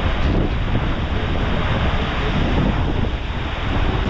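Wind buffeting the microphone over the steady rush of heavy lake waves around a moving ferry.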